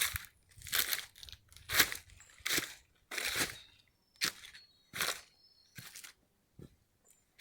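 Footsteps crunching through dry leaf litter on a forest trail, about one step every 0.8 seconds, growing softer near the end.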